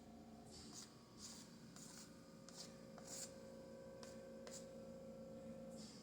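Faint scraping strokes of a palette knife dragging acrylic paint, about eight short scrapes a half second or so apart.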